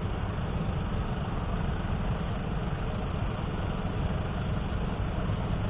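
Keeway CR152 motorcycle's single-cylinder engine running steadily at low revs, a continuous low-pitched engine sound with no change in speed.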